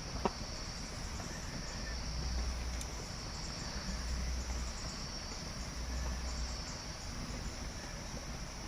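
Insects trilling steadily in a high, even chorus over a low rumble, with one sharp click about a quarter second in.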